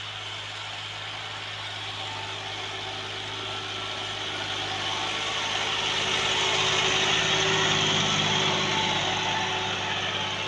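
Massey Ferguson 260 Turbo tractor engine running steadily. It grows louder to a peak about three-quarters of the way through, then eases off a little, as if the tractor passes close by.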